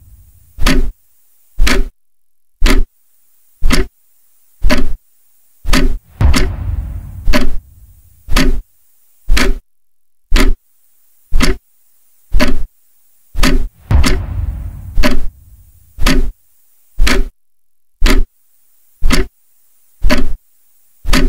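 Countdown ticking sound effect: a sharp clock-like tick about once a second, with a heavier, deeper hit that rings on for a moment roughly every eight seconds.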